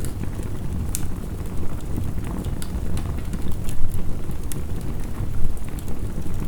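Wood fire crackling, with scattered sharp pops, over a steady low rush of heavy rain.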